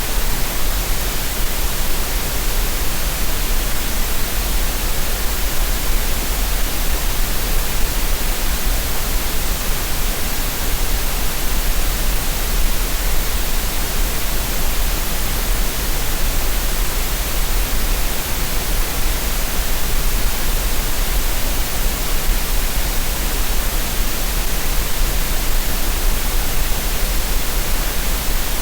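Steady generated green noise: an even, unbroken hiss spread across the whole range with a low rumble underneath, unchanging throughout.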